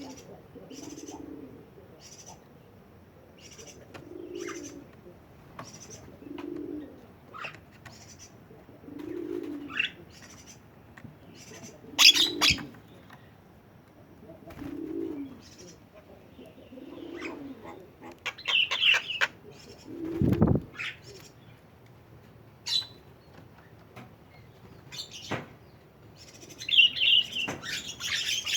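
Bird calls: a low coo repeated about every two seconds, with sharp chirps and short squawks over it that grow louder near the end. A Javan myna is the likely chirper. There is a sharp click about twelve seconds in and a low thump about twenty seconds in.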